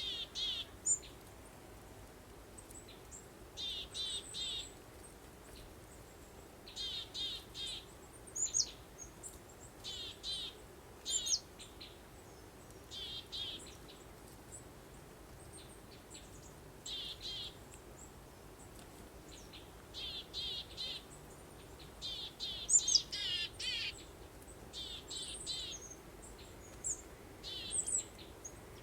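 Birdsong: short phrases of three or four quick rapid notes repeated every two to three seconds, with higher, sharper single chirps between them, over a faint steady background hum.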